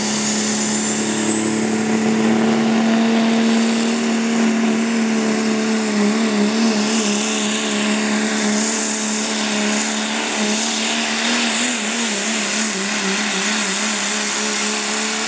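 Diesel pulling truck's engine held at high revs under load during a pull run, steady for most of the run. A high whine climbs over the first couple of seconds, and the engine pitch wavers up and down in the middle of the run.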